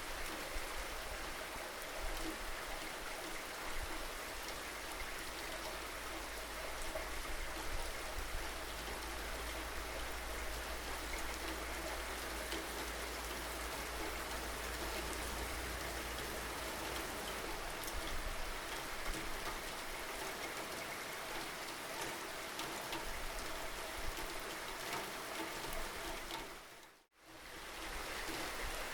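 Steady rainfall with individual drops pattering through a constant hiss. About 27 seconds in the sound drops away almost completely for a moment, then fades back in.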